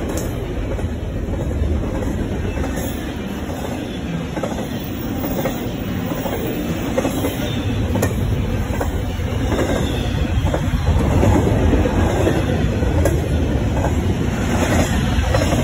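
Double-stack container well cars of a CSX intermodal freight train rolling past at close range: a steady rumble of steel wheels on rail, with a few sharp clicks.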